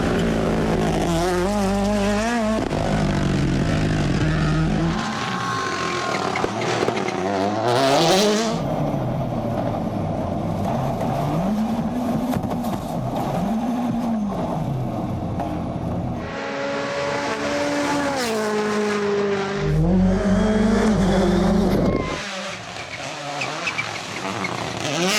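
Rally car engines revving hard, the pitch rising through each gear and dropping as they lift off and brake, across several short clips. There is a sudden burst of noise about eight seconds in.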